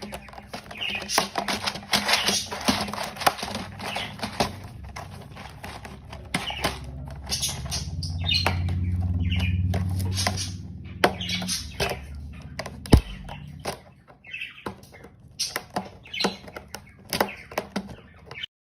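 Pet bird chirping in many short calls, with wing flapping and sharp taps. A low hum runs for a few seconds in the middle.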